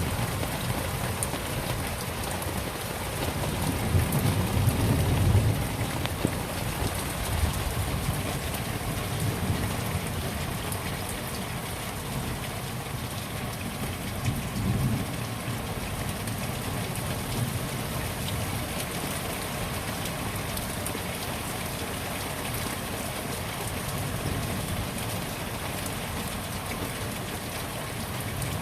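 Steady heavy rain hissing down, with low rumbles that swell and fade several times.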